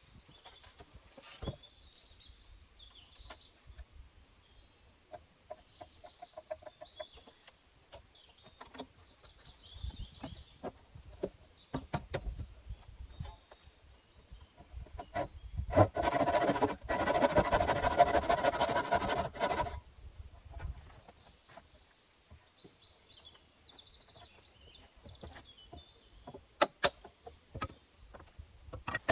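Small birds chirping faintly among scattered knocks and taps of work, broken in the middle by about four seconds of a loud, harsh noise. Quick knocks begin near the end.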